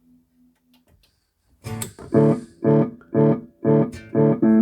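Guitar played through a Peavey UltraVerb digital multi-effects processor. A held note dies away, and after a short gap the same chord is struck over and over, about two strokes a second. The unit is passing the effected signal again after a system reset and a new diode.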